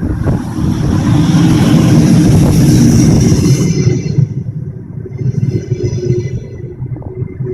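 Double-decker passenger train rolling past at close range: a loud low rumble of wheels on rail with a hiss that fades about four seconds in, then two short high-pitched ringing squeals over the rumble.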